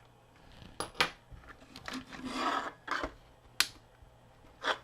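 Small Phillips screwdriver working screws out of a plastic action figure: four sharp clicks of metal and plastic, with a short scraping rub about halfway through.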